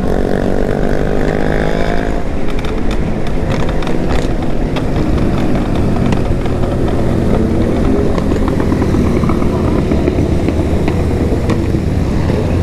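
Remapped sport motorcycle engines, several at once, accelerating hard: the pitch climbs over the first couple of seconds, then the engines keep running loud at high revs, with another rising rev a few seconds in and scattered crackles.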